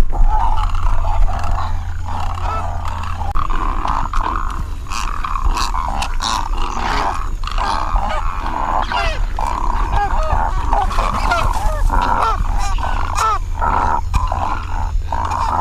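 Great egret nesting colony: many birds calling at once, a dense, overlapping chorus of harsh croaks and short rising-and-falling calls, over a steady low rumble.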